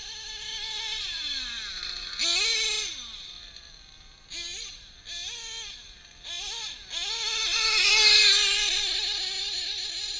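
Drag-modified Novarossi .28 two-stroke nitro engine of an RC truggy revving: its high-pitched whine falls away as it comes off throttle, gives several short throttle blips, then holds high revs through the last few seconds, loudest near the end.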